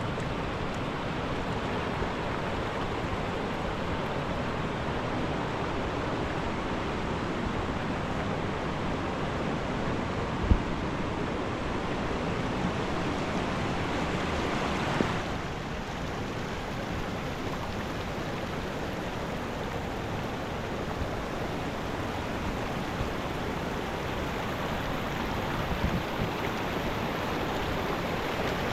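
Mountain river water rushing steadily. There is a single sharp knock about ten seconds in, and the sound shifts slightly about halfway through.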